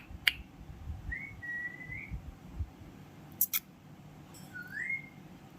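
Pet parrot whistling: a short whistle that rises and is then held for about a second, and a second, rising whistle near the end. Between them are a few sharp clicks.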